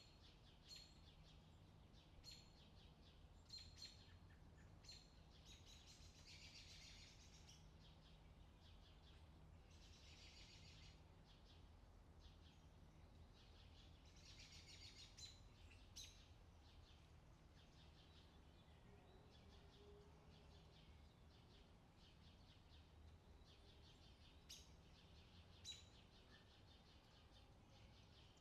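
Faint outdoor summer ambience: birds chirping, with short bursts of fast trilling every few seconds, over a low steady hum.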